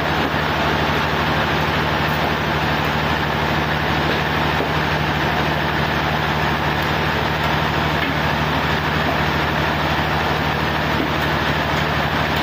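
A sawmill's engine running at a steady speed, a loud, even drone with a constant low pitch.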